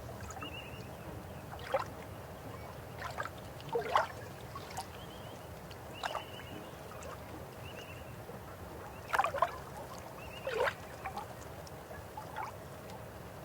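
River water running steadily, with half a dozen short gurgles and splashes popping out of the flow.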